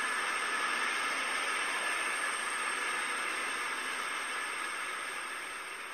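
Express passenger train running through a station platform: a steady rushing of wheels and air that eases off over the last couple of seconds as the rear of the train passes.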